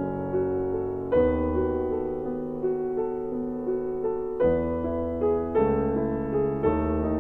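Background piano music: slow, sustained chords with a simple melody on top, a new chord struck every second or few.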